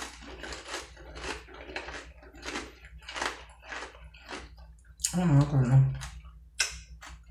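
Close-up chewing of crunchy Doritos tortilla chips, a steady run of crunches about every half second to two-thirds of a second. About five seconds in comes a short hummed 'mmm' of enjoyment.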